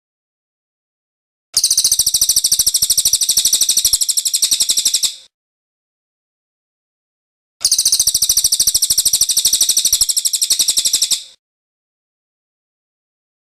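Cililin bird singing its rolling trill: two bursts of about three and a half seconds each, made of rapid, high, evenly repeated notes, with dead silence between them, as in a looped song-tutor recording.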